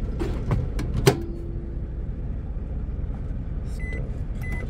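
A few clicks and a sharp knock with a brief ringing, like a microwave oven door being shut, then two short electronic beeps from its keypad as the heating time for the milk is set. A steady low engine hum runs underneath.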